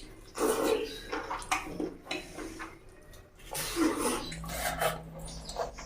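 Close-miked eating noises: irregular slurping and chewing bursts, with a few clinks of dishes.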